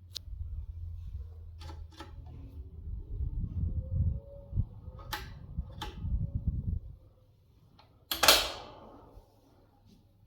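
KDK 40DY 17-inch metal electric fan running with a low hum and rumbling air, which dies away about seven seconds in, with a few sharp mechanical clicks and one loud clack about eight seconds in.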